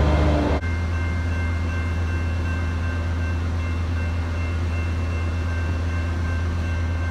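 Metrolink bilevel commuter train at the station platform, giving off a steady low hum with a few faint, steady high whines. The level drops abruptly about half a second in, and the hum carries on more quietly.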